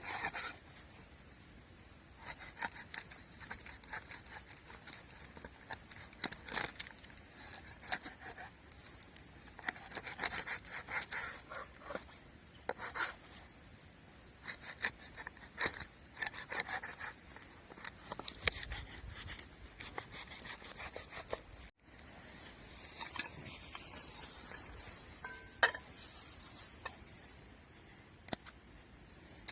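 Irregular short scraping and rubbing strokes. They break off suddenly about twenty-two seconds in, and fainter scrapes and a few light ticks follow.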